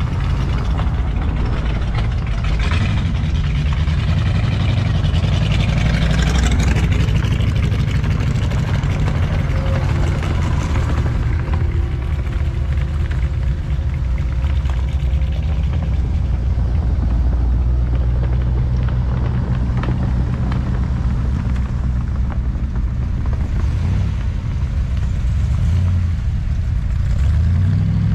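Engines of classic cars driving slowly past one after another, a continuous low rumble, with a rising rev about a few seconds in.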